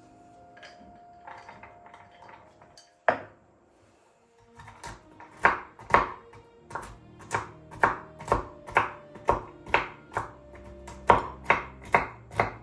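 Knife chopping on a cutting board, about two strokes a second through the second half, after a single knock about three seconds in. Soft background music plays underneath.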